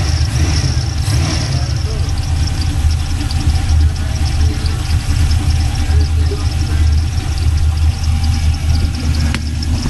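The Regal's 6.0 engine idling steadily with an even low rumble. There is one sharp click near the end.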